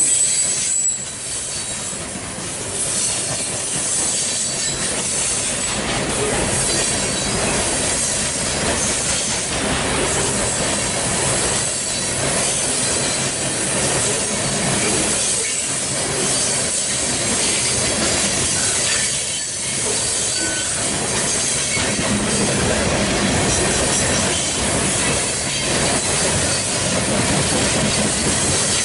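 Loaded coal cars of a freight train rolling past close by: steady noise of steel wheels on rail, with a brief high wheel squeal near the start.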